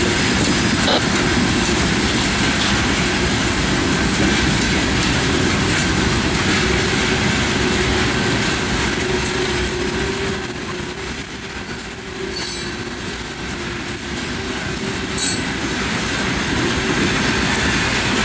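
Freight train of coal hopper cars rolling past: a steady rumble of steel wheels on rail with wheel squeal and a few clicks over rail joints.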